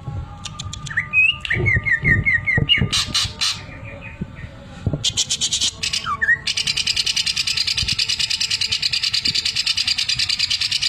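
Greater green leafbird (cucak ijo) singing: quick whistled notes and a run of short rising chips, then, a little past halfway, a long, fast, even rattle, its mimicry of a sewing machine.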